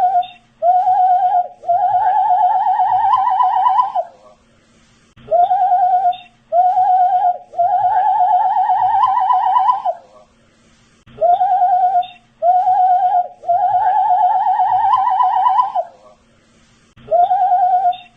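A man whistling a looped phrase: two short notes, then a longer warbling note that rises slightly. The phrase repeats about every six seconds, three times over.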